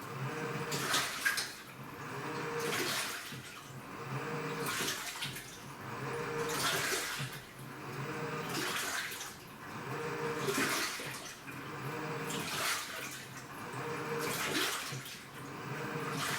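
Washing machine in its wash cycle: the drum turns back and forth with a motor hum, and the water sloshes in regular surges about every two seconds.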